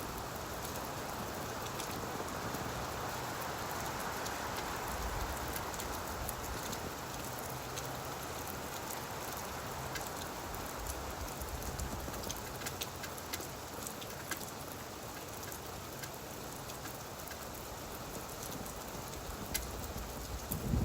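Steady rain falling on leaves: an even hiss of rainfall with scattered individual drop ticks.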